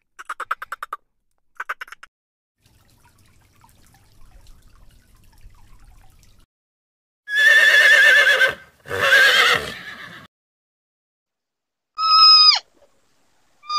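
A series of animal calls from different animals. A quick pulsed call comes near the start and again briefly; two loud, wavering, whinny-like calls follow in the middle; a short call falling in pitch comes near the end.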